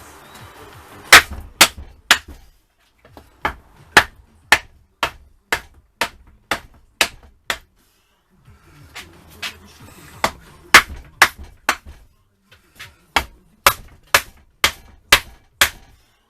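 Hammer blows knocking at the rust-seized cylinder barrels of a Yamaha FZR1000 engine to drive them off, sharp loud strikes about two a second in runs with a short pause in the middle.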